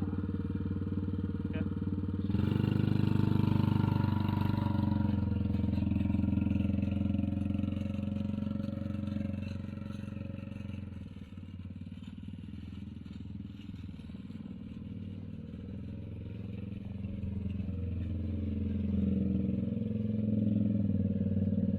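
Small 110cc engine of a kids' car running at idle, then speeding up about two seconds in as the car moves off; the engine note eases off midway and builds again near the end.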